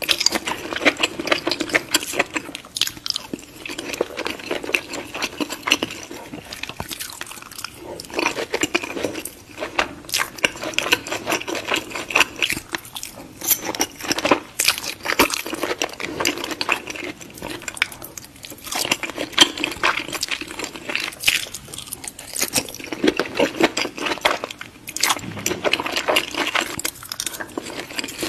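Close-miked chewing of fried seafood: a dense run of crunching and mouth clicks, with a few short pauses.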